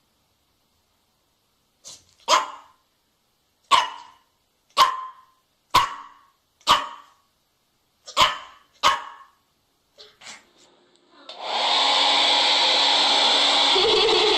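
A dog barks about seven times in sharp single barks spaced roughly a second apart, followed by a few fainter ones. About eleven seconds in, a hair dryer switches on and blows steadily.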